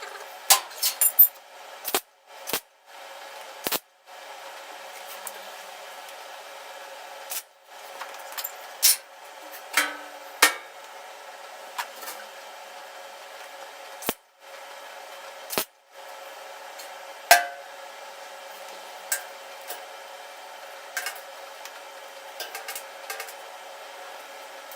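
Tools and sheet-steel parts being handled: a dozen or so sharp metallic clinks and knocks at irregular intervals over a steady hiss, the loudest a cluster about a second in and single knocks around ten and seventeen seconds.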